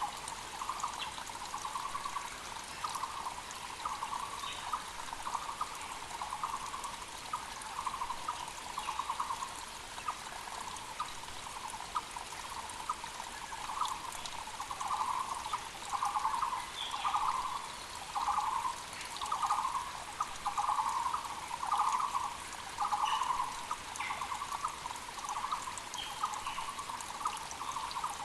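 Taiwan barbet (Müller's barbet) singing a steady series of low, hollow notes, about one a second, louder through the middle and later part, over the constant rush of a mountain creek. A few short, higher chirps from other birds come through now and then.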